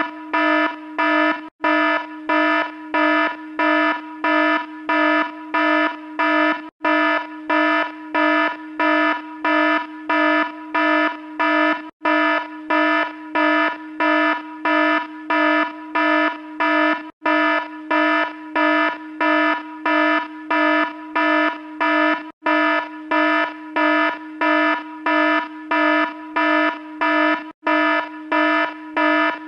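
Electronic alarm buzzer beeping in an even, fast pulse of a little under two beeps a second, a buzzy tone with many overtones. It is a short sound-effect clip looped, with a brief break about every five seconds.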